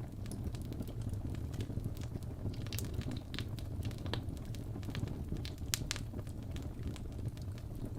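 Wood fire burning in a fireplace: a steady low rumble of the flames with irregular sharp crackles and pops all through, the loudest pop a little before six seconds in.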